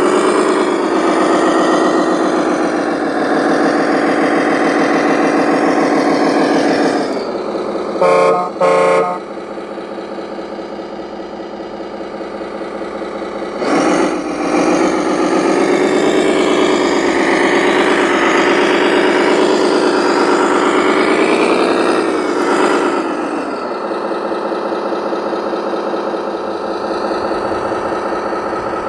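RC truck's sound module playing a diesel engine that revs up and down, with two short air-horn blasts about eight seconds in.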